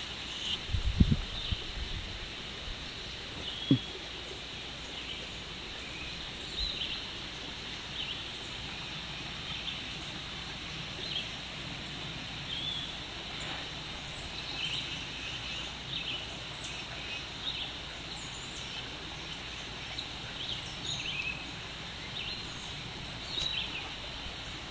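Birds chirping and calling in the woods, short scattered calls over a steady outdoor hiss of distant water. A few knocks stand out in the first four seconds.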